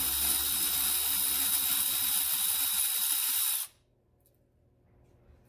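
Power tool with a 10 mm socket spinning out a grille bolt, running steadily with a strong hiss, then stopping sharply about three and a half seconds in.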